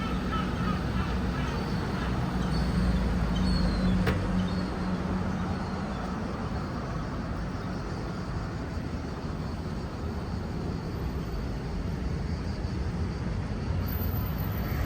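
Road traffic: the steady noise of cars passing, with one vehicle's engine hum swelling for a couple of seconds near the start. A single sharp click about four seconds in.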